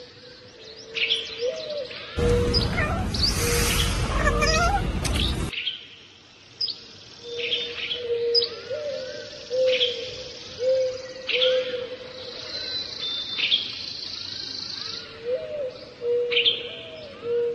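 Small birds chirping over and over, in short high tweets, above a steady low tone. A few seconds of loud hissing noise start about two seconds in and stop suddenly.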